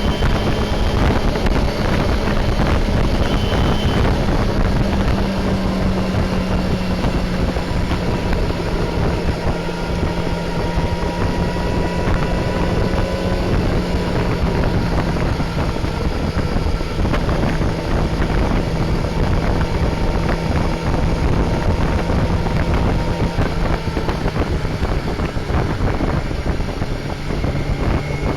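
Honda CBR250RR (MC22) 250 cc inline-four engine running at steady cruising revs on the move, with heavy wind noise on the microphone. The engine note sags slightly through the middle and rises again near the end.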